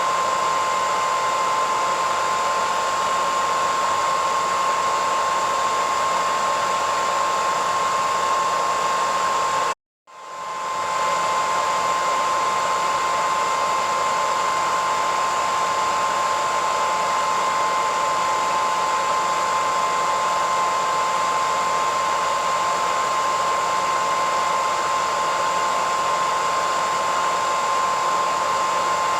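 Hair dryer running steadily: a constant airy rush with a steady whine around the middle pitch. About ten seconds in it cuts out to silence for a moment and then swells back to full within half a second.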